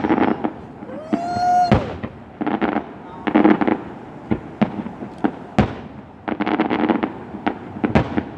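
Aerial fireworks going off: several bursts of dense crackling, with single sharp bangs between them.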